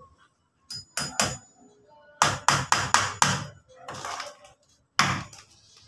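Hammer striking wood: a few separate blows, then a quick run of about six strikes, then one more blow near the end.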